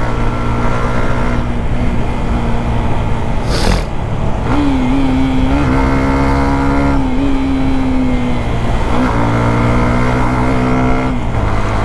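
Motorcycle engine running while riding, freshly serviced. Its note holds fairly steady, then shifts in pitch several times. A brief sharp rushing noise comes about three and a half seconds in.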